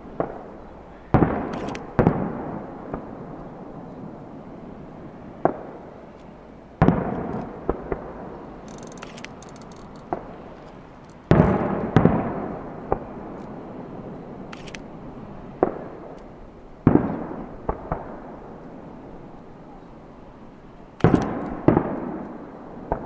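Aerial firework shells bursting: sharp booms every few seconds, often in pairs or quick groups of two or three, each followed by a long echoing tail.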